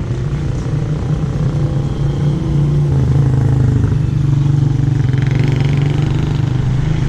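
A small engine running steadily with a constant low hum, typical of a motorcycle or tricycle engine.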